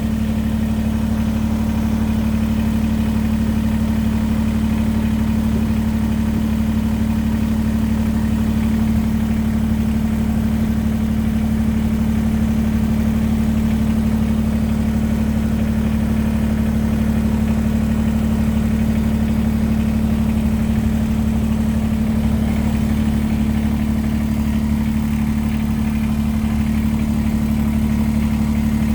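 Kubota BX23S compact tractor's three-cylinder diesel engine running at a steady, even speed, with a slight shift in its note about two-thirds of the way through.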